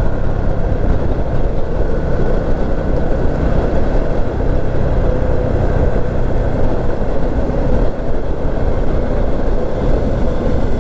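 Small motorcycle riding at steady speed: a constant engine note under heavy wind and road noise on the rider's microphone.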